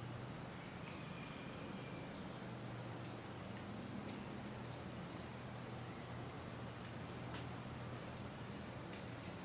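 A small bird giving a short, high chirp over and over, about once a second, over a low steady hum.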